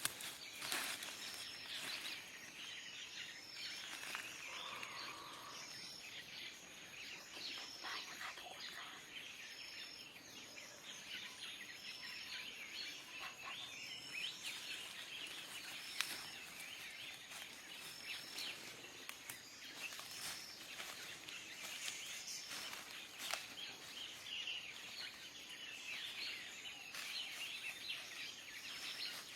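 Small birds chirping and calling, with one short high call repeated evenly about every second and a half.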